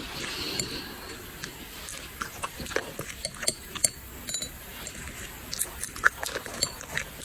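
Dogs eating rice: irregular chewing and mouth clicks.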